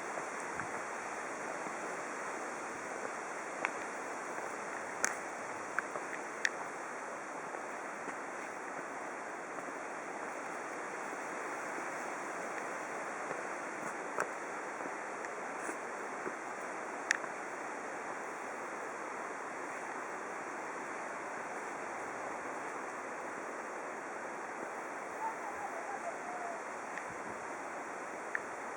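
Steady rushing of fast-flowing stream water, with a few faint sharp clicks over it.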